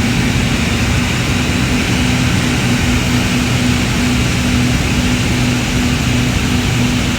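Airbus AS350 B2 helicopter heard from its own cockpit: a loud, steady turbine and rotor drone with a low hum that pulses slightly.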